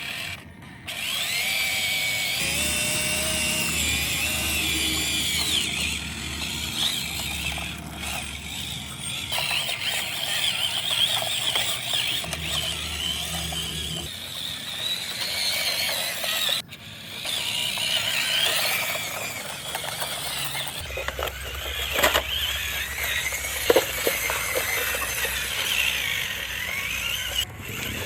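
RC dump truck's electric motor and gearbox whining, rising and falling in pitch as the throttle changes, with a few sharp knocks in the last third.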